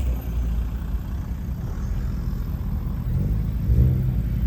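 Car engine running with a low rumble, swelling briefly about three seconds in.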